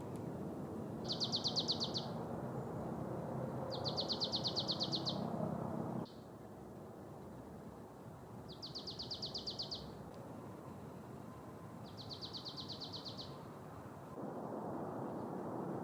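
Marsh tit singing: two short, rapid trills of evenly repeated high notes, over a steady low background rumble. After a sudden cut about six seconds in, two fainter trills of the same kind follow.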